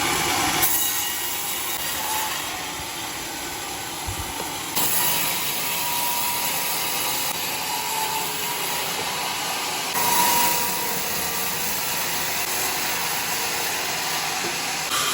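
Sawmill blade cutting through a burnt bayur log, a steady, noisy saw sound that grows louder about five seconds in and again around ten seconds.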